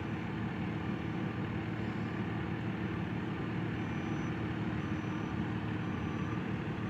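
Heavy truck engine running steadily at low revs. About four seconds in, faint reversing beeps start, roughly one a second, as the truck goes into reverse.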